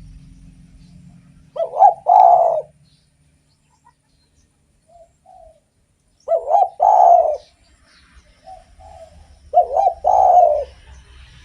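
Spotted dove cooing: three calls a few seconds apart, each a couple of quick notes followed by a longer coo, with soft short notes in between.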